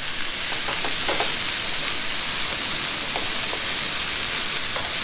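Mixed vegetables (zucchini, squash, mushrooms and asparagus) sizzling in butter and olive oil in a pan on a camp stove: a steady hiss with small scattered crackles.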